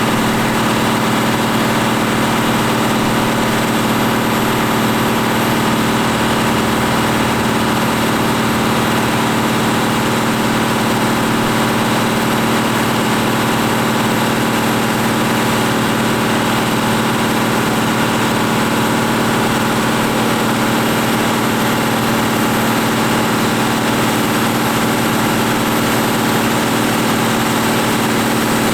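New Holland TM140 tractor's diesel engine running at a steady, unchanging speed during dynamometer testing.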